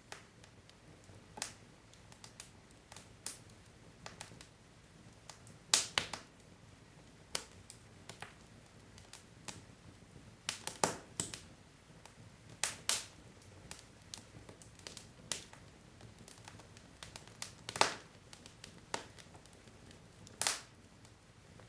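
Wood logs burning in a fireplace: irregular crackling, with sharp pops every second or two and a few louder snaps, over a faint low hiss.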